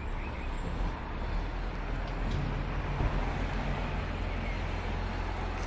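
A motor vehicle's engine running steadily: a low hum with road noise.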